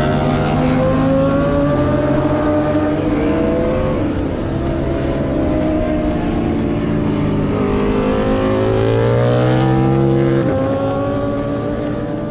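Several racing motorcycle engines running hard at high revs on a race circuit, their pitch climbing slowly and dropping sharply about four seconds in and again near ten and a half seconds.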